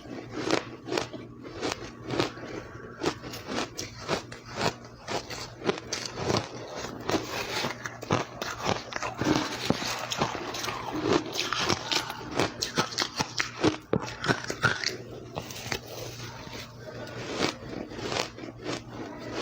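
Ice being bitten and chewed close to the microphone: a dense, irregular run of crisp crunches and crackles with no pause.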